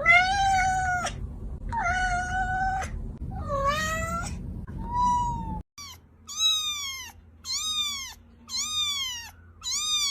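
Domestic cat meowing, several long drawn-out meows. After a cut about six seconds in, a second recording of shorter, quicker meows follows, roughly one a second, each falling in pitch.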